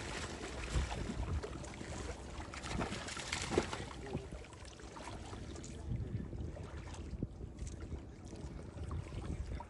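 Wind on the microphone over open water, with scattered light knocks and rustles; the loudest knock is about three and a half seconds in.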